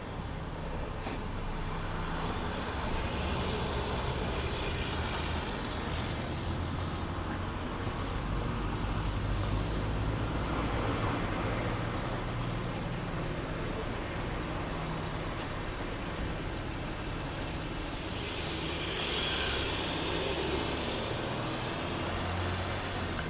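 Heavy motor vehicle engine running with a steady low drone that grows louder and then eases, with a brief hiss near the end.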